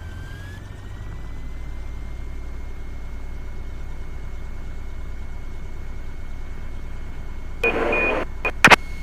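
A Cessna Skylane's engine as a steady low hum through the cockpit intercom, with a faint steady whine over it. Near the end there is a brief burst of radio noise followed by a couple of sharp clicks.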